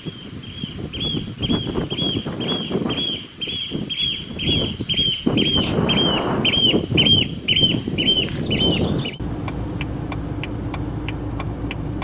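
A bird calling over and over, short high arched notes about three a second, over a rumbling background noise. About nine seconds in this cuts off abruptly to the steady hum of a car on the road with a faint regular ticking.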